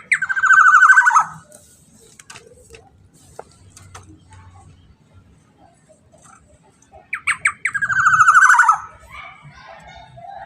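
Black-naped oriole (kepodang) calling twice, about seven seconds apart: each call is a few quick clipped notes followed by a rasping call lasting about a second.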